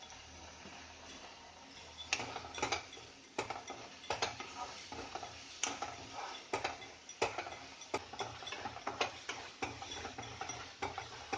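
Spoon scraping and knocking against a pan at irregular intervals as onion and green chilli paste is stirred while it fries, with a faint sizzle and a low steady hum underneath.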